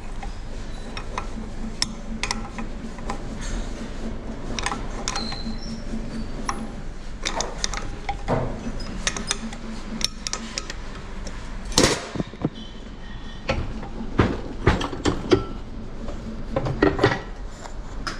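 Metal tools and parts clinking and knocking during engine repair work, a few scattered clinks at first, then a quicker run of louder knocks in the second half. A steady low hum runs underneath during the first half.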